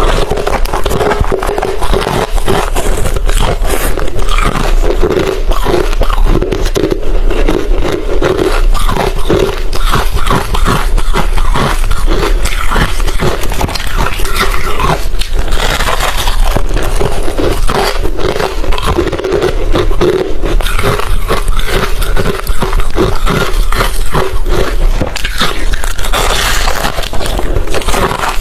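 Hard refrozen crushed ice being bitten and chewed close to the microphone: a dense, unbroken run of crisp cracks and crunches.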